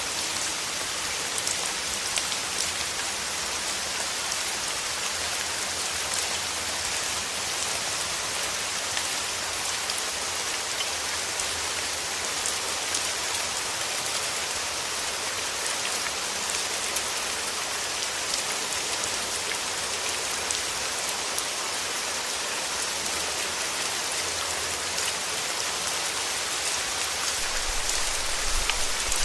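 Steady rain falling on a surface, a dense hiss of many drops with fine individual taps. A low rumble of thunder starts to build near the end.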